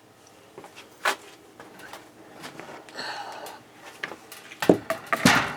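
Scattered clicks, knocks and rustling from handling, with a louder clatter of knocks near the end.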